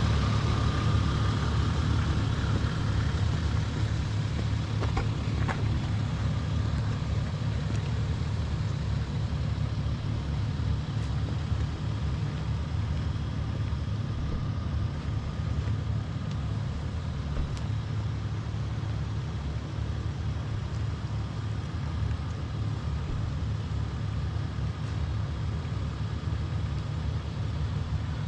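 Toyota LandCruiser four-wheel drive's engine idling steadily, growing slightly fainter over the first several seconds.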